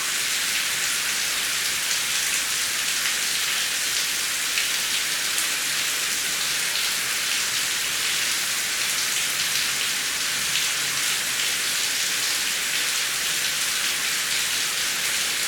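Heavy rain falling steadily: a dense, even hiss of drops with faint individual drop ticks scattered through it.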